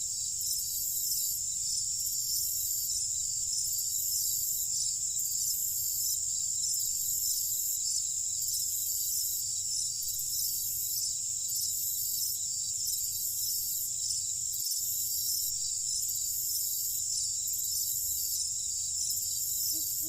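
Night insect chorus of crickets: a steady high trilling, with a still higher chirping that pulses on and off a little less than once a second.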